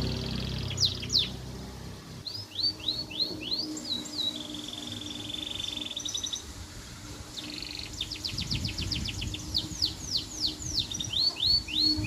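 Domestic canary singing a long song of repeated sweeping whistled notes, broken by a buzzy trill about four seconds in and a fast rattling roll near the middle. A low rumble fades away in the first two seconds.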